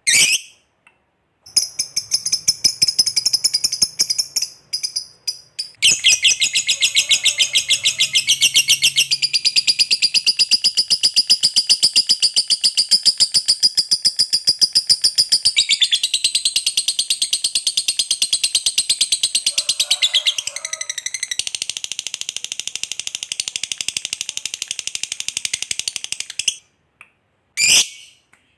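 Lovebird 'ngekek': a long, fast, high-pitched chattering trill of rapid evenly repeated notes, starting about a second and a half in, with a short break near six seconds, running on for about twenty seconds before stopping, followed by one short call near the end.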